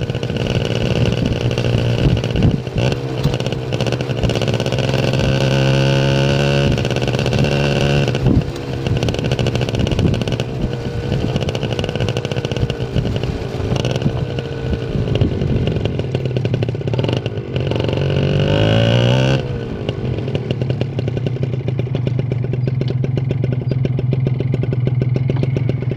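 Kawasaki Ninja 150 RR two-stroke single-cylinder engine running under way, heard close from a microphone on the rear fender. The engine note climbs twice under acceleration, about a fifth of the way in and again about three-quarters through, each time breaking off suddenly.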